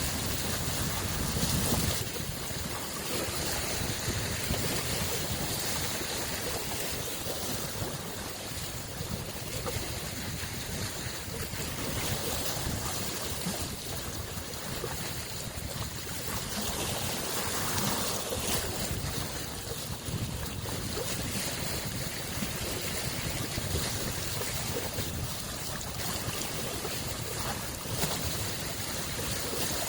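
Small lake waves washing onto the shore of Lake Biwa, a freshwater lake: a continuous wash that swells and eases a little every few seconds.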